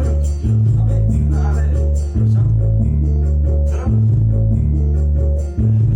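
Korg Pa700 arranger keyboard playing a style with a heavy bass line through a small speaker system, being checked for its low end. Loud, held bass notes change about every one and a half seconds under a plucked-string melody.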